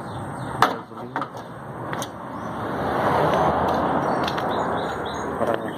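A vehicle passing by: a rushing noise that swells to its loudest midway and then eases off, with a few light knocks in the first two seconds.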